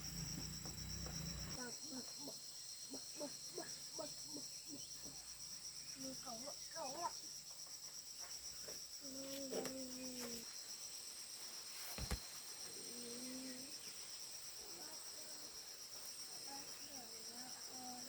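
Steady, high-pitched chorus of insects, with faint voices now and then. There is a single sharp click about twelve seconds in.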